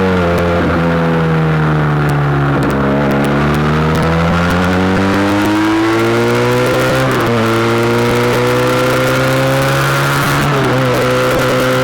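SBM 400 motorcycle engine under way, its pitch climbing steadily and dropping suddenly three times, like upshifts through the gears while accelerating.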